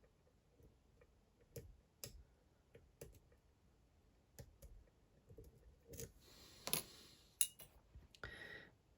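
Faint, scattered clicks of a lock pick and tension tool working the pins inside a Dom IX Twinstar dimple lock cylinder. There are two longer scraping sounds, one about six seconds in and one near the end.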